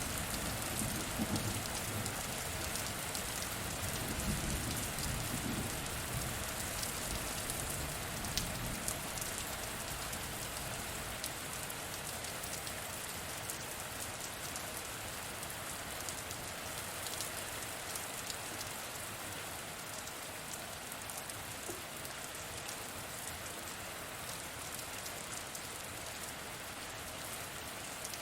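Steady rain falling, with scattered ticks of individual drops. A low rumble of thunder fades away over the first ten seconds or so.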